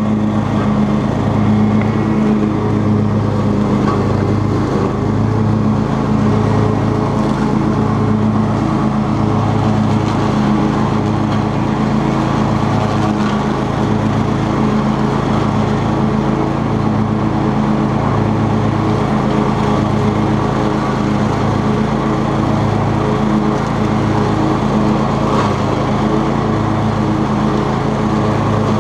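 Cub Cadet XT2 lawn tractor running steadily while mowing with its 42-inch deck, engine and spinning blades making a constant low hum.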